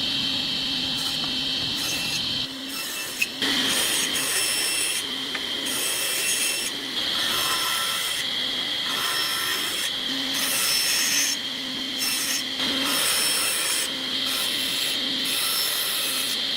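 Wood being worked with an abrasive or cutting tool: a steady rasping, rubbing sound in repeated passes, with one sharp click about three seconds in.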